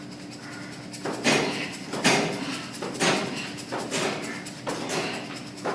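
Punches landing on boxing mitts, a steady run of sharp hits at roughly one a second, beginning about a second in.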